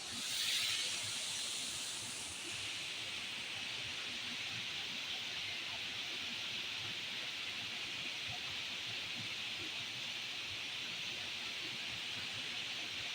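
Big waterfall rushing as a steady, even hiss.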